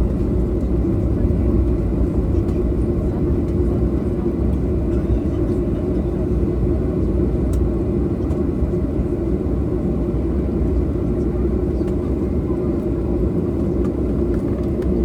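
Steady low rumble inside the cabin of a Boeing 737-800 airliner on the ground, even and unchanging throughout.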